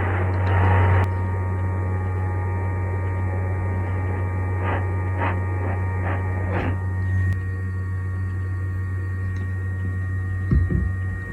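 Steady electrical mains hum with a few faint steady whining tones. A hiss cuts off about a second in, and four faint short scrapes come near the middle.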